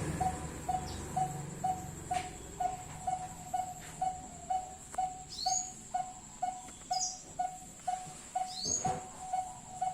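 A bird calling a long, even series of short identical notes, about three a second, with a few higher, sweeping chirps from other birds now and then.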